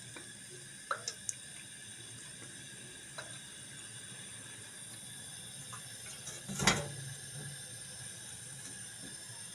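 A few light clicks over a steady background hiss, then one sharp, much louder knock about two-thirds of the way through.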